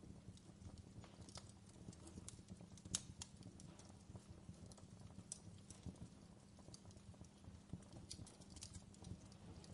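Fireplace crackling quietly: irregular small pops and snaps over a low steady rumble, with one sharper pop about three seconds in.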